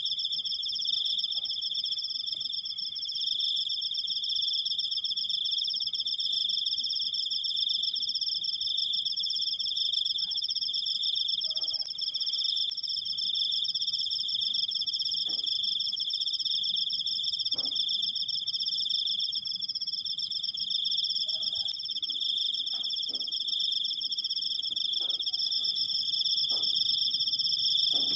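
Crickets trilling in one long, unbroken, high-pitched song, with two steady pitches sounding together, the higher one pulsing very fast. Faint scattered ticks sit in the background.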